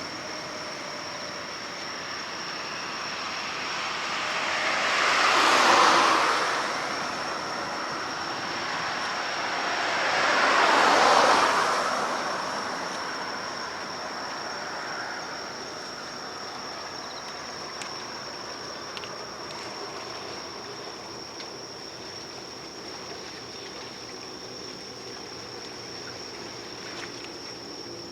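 Two vehicles pass one after the other, each a whoosh that swells and fades over a few seconds, the second about five seconds after the first. A steady high-pitched insect trill runs underneath.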